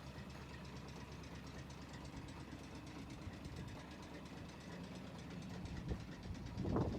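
Yanmar C12R-A crawler carrier's two-cylinder diesel engine idling steadily with a diesel clatter, getting a little louder near the end, where a short louder noise rises over it.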